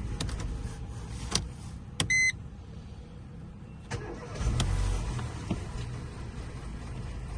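A few clicks and a short electronic beep about two seconds in, then the Mercedes-Benz M266 1.5-litre four-cylinder petrol engine cranks and starts about four and a half seconds in and settles to idle.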